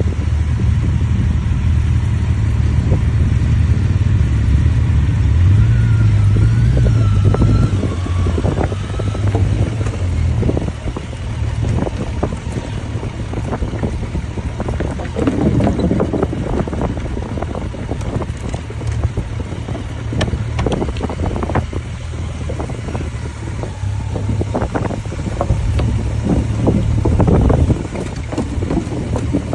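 Motorcycle engine running at a steady cruise, a low hum under heavy wind buffeting and flapping on the microphone.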